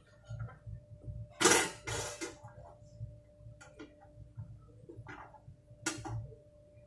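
A series of sharp clicks and knocks, the two loudest about a second and a half in, from parts of an electric water boiler being handled and fitted back together, over a faint steady hum.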